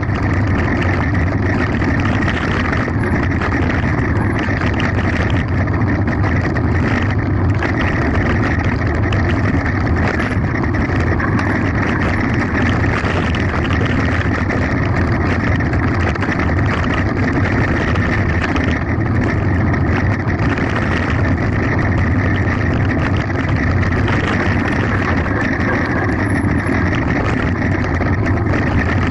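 Mountain bike descending at speed on a gravel forest road: a steady rush of wind on the onboard microphone mixed with tyres rumbling and the bike rattling over the gravel.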